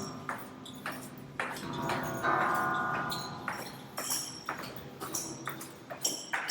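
Metal stairwell handrail being struck, with sharp knocks about two a second. One louder hit about two seconds in leaves a metallic ringing that dies away over about a second.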